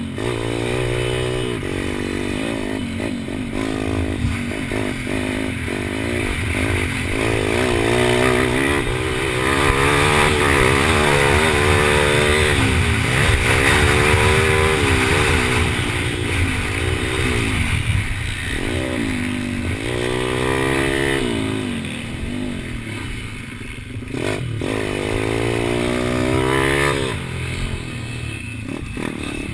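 A pit bike's small single-cylinder engine being raced: its pitch climbs and drops every second or two as the throttle is opened and shut, with wind rush over the GoPro.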